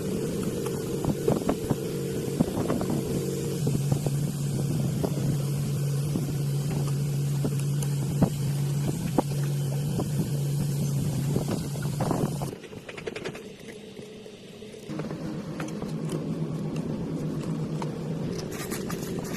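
The motorized bicycle's small engine running steadily. About twelve seconds in it falls away suddenly, then picks up again a couple of seconds later.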